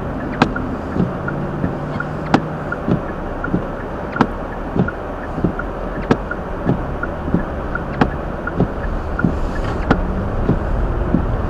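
Steady road and engine noise inside a car driving slowly on a snow-covered road, with a regular click about every 0.6 seconds running through it.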